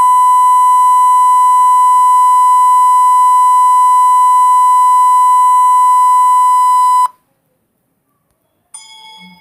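A loud, steady electronic beep at one fixed pitch, the classic censor bleep, held for about seven seconds and then cutting off abruptly. Near the end, after a short silence, a fainter ringing tone starts and fades.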